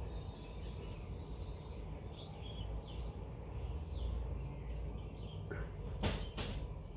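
Quiet outdoor background with faint bird chirps, then two short noises about six seconds in.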